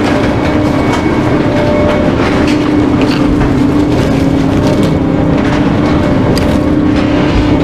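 Trash truck running, a steady drone with a constant whine and scattered rattles.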